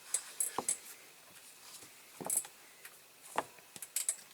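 Scattered light clicks and taps from handling a small diecast model van and small tools on the workbench.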